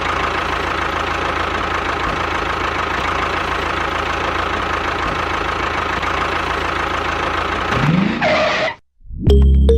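Small motor of a homemade mini bulldozer running steadily. Near the end it rises briefly in pitch and then cuts off suddenly.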